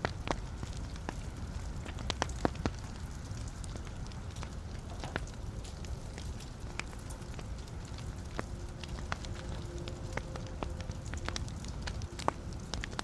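Wood fire burning in a fireplace: a steady low rumble of flame with irregular sharp crackles and pops from the logs, several close together at about two and a half seconds in. A faint thin hiss-like whistle joins in during the second half, as from gas escaping a log.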